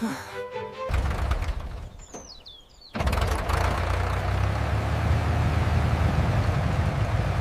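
Tractor engine idling with a steady low rumble, cutting in about a second in after the last notes of music, dipping briefly near two seconds with a short high chirp, then running steadily from about three seconds.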